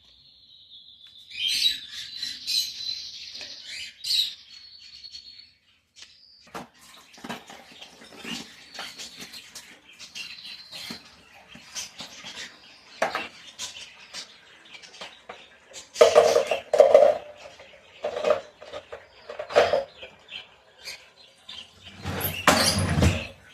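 Small birds chirping and trilling, with scattered knocks and clatter of household objects being handled during cleaning, and a louder rushing clatter near the end.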